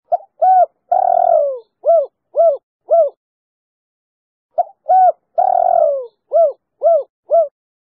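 Female spotted dove (tekukur) singing its 'kuk 3' song twice. Each phrase is a short note, a short coo, a longer coo falling in pitch, then three short evenly spaced coos; there is a pause of about a second and a half between the two phrases.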